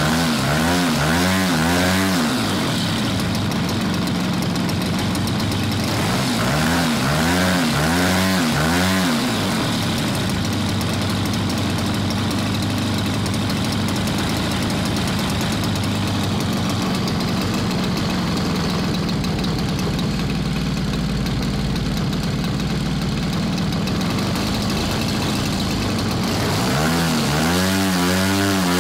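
MVVS-80 two-stroke model aircraft engine running steadily, its pitch swinging up and down again and again at the start, about seven seconds in, and near the end.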